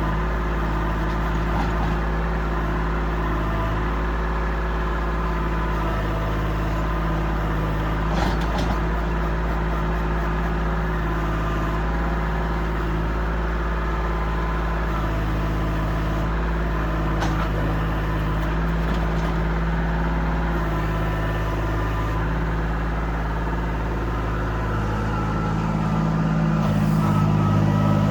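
Kubota L2501 compact tractor's diesel engine running steadily, its revs and loudness rising a little near the end.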